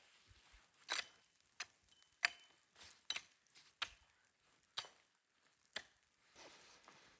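A series of about seven sharp knocks at uneven intervals, each short and crisp.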